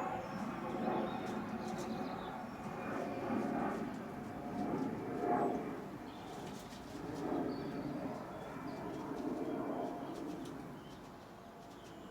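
A pigeon or dove cooing in low, soft phrases repeated every second or two, with faint short chirps from small birds.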